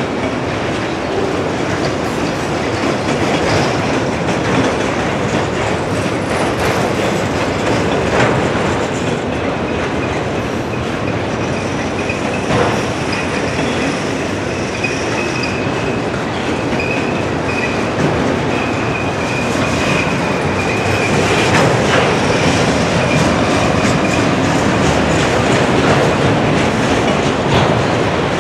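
Freight train of autorack cars rolling past: steady rumble of steel wheels on rail with occasional clacks, and a high-pitched wheel squeal that holds for several seconds in the middle.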